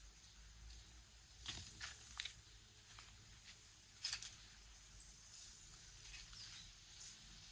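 Quiet footsteps of a person walking, with a few sharp scuffing steps about one and a half to two seconds in and again about four seconds in.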